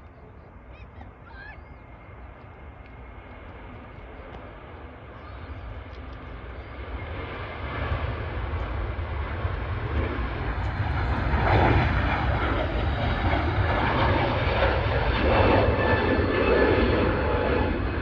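Airliner engine noise growing steadily louder as the aircraft approaches, from faint to loud, peaking over the last third.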